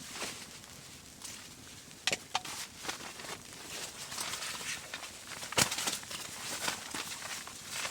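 A few short, sharp knocks and clicks, the loudest about two seconds in and again past halfway, over a faint steady hiss.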